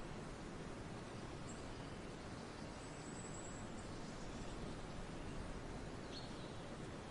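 Forest ambience: a steady background hiss with a few faint, high bird calls, among them a thin held note about three seconds in and a short chirp near the end.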